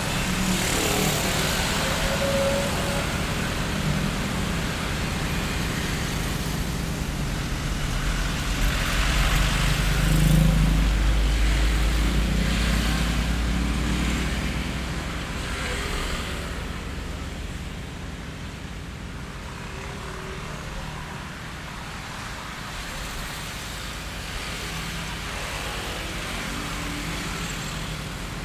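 Street traffic ambience: road vehicles passing in a steady wash of road noise. A low-rumbling vehicle builds to the loudest point about ten seconds in and fades away by about sixteen seconds, and the traffic is quieter after that.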